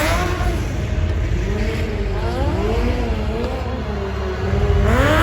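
Stunt cars' engines revving and accelerating over a deep rumble, several at once, their pitch repeatedly rising and falling. A louder rev climbs near the end.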